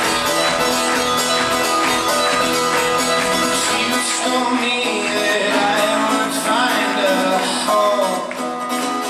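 Live folk-rock band playing an instrumental passage between sung lines: rapidly strummed acoustic guitar and other plucked strings, loud and steady.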